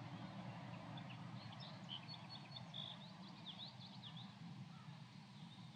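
Faint birdsong: a bird chirps for a couple of seconds in the middle, a run of short chirps and quick sliding notes, over a steady low rumble of outdoor ambience.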